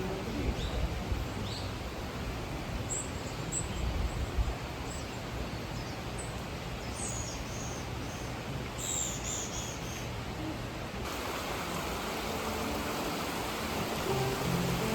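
Small birds chirping in short calls over the steady rush of a mountain stream. About eleven seconds in, the water sound turns brighter and fuller, and soft background music starts to come in near the end.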